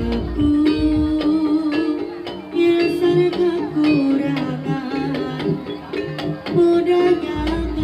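Jaranan music: an instrumental ensemble playing a melody over a steady run of drum strokes and struck percussion.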